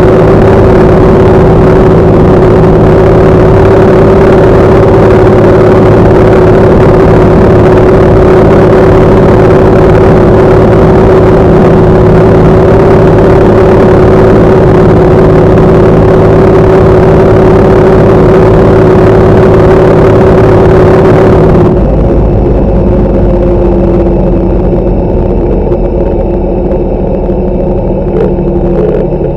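Tractor diesel engine running steadily and loud. About two-thirds of the way in, the sound abruptly drops in level and turns duller, then carries on steady.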